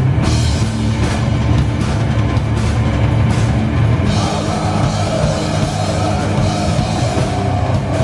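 Heavy metal band playing live, with distorted guitars, bass and a drum kit with crashing cymbals.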